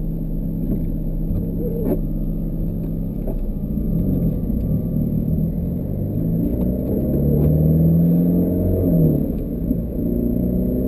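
Ferrari F430's V8 engine idling, heard from inside the cabin, with the revs rising briefly and settling back about seven to nine seconds in.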